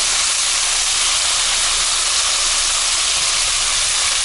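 Pork fat and canned beef stew sizzling steadily in a hot kazan over a fire.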